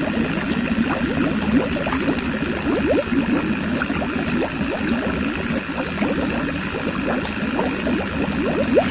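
Small motor-driven water pump running steadily, with water gurgling and bubbling as it is pumped and splashes.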